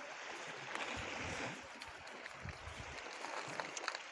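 A steady wash of sea water with wind on the microphone, and a few faint clicks.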